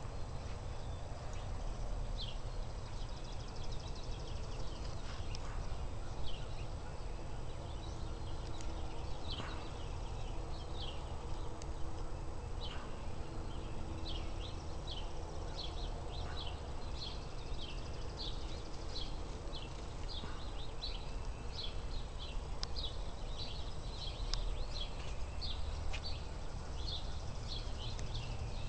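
Birds chirping in short, high, falling notes, more often from about halfway through, over a steady low outdoor rumble.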